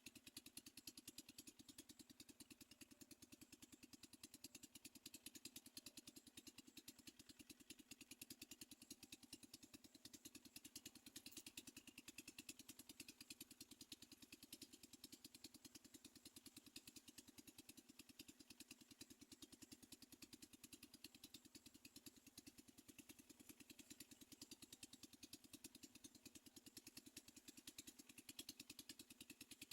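Near silence: a faint, fast, even pulsing hum that stays steady throughout.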